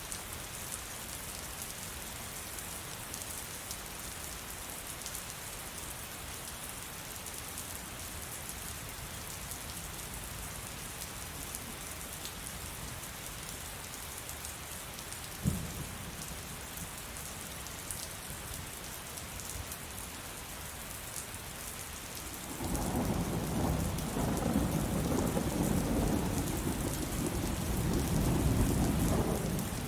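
Steady heavy rain pattering throughout, with a single sharp crack about halfway through. Near the end a loud, long roll of thunder breaks in and rumbles on over the rain.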